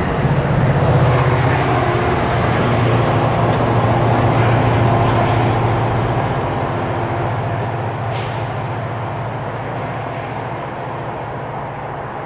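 A New Jersey Transit diesel locomotive pushes a train of multilevel coaches past. Its steady engine drone and the rumble of the train are loudest over the first few seconds, then fade as it draws away.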